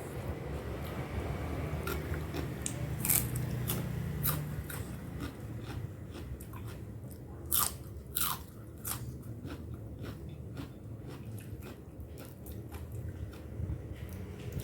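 Close-up chewing and crunching while eating cooked blue swimmer crab with spicy papaya salad, with several sharp cracks, the loudest about three and about eight seconds in, typical of crab shell breaking between the teeth.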